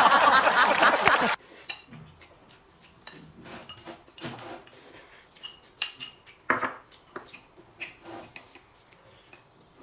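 Cutlery and dishes clinking and tapping in short, scattered knocks, a few every second, as a meal is eaten.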